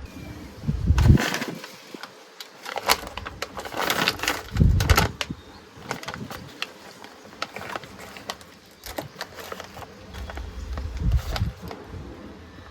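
Irregular sharp crackles and clicks, with soft low thumps about a second in, near five seconds and near eleven seconds: a packaged snack and its packet being handled.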